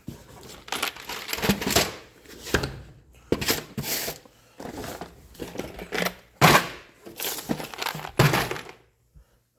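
Irregular knocks, thunks and rustling of stored items being handled and set down on a shop floor, with the loudest thunk about six and a half seconds in.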